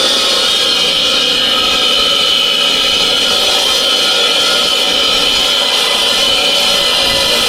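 Motorised saw cutting stone building blocks, running steadily at full load with a high whine.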